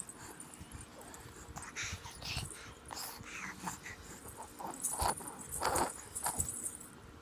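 A run of short, high, whimpering vocal calls that slide in pitch, loudest about five to six seconds in.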